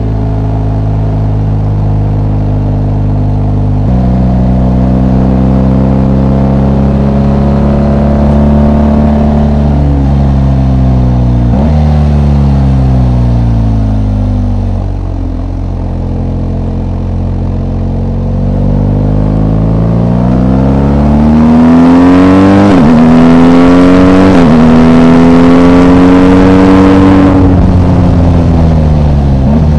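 BMW R 1250 GS Rally's flat-twin boxer engine under way, its revs climbing and dropping several times with sudden pitch changes. It is loudest from about two-thirds of the way in, holding high revs, then easing off near the end.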